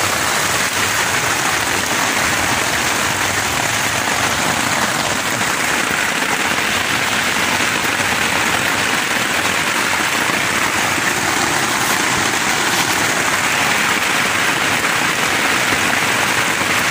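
Steady rain beating on the rain fly of a Teton Sports Mountain Ultra tent, heard from inside the tent as an even, unbroken patter.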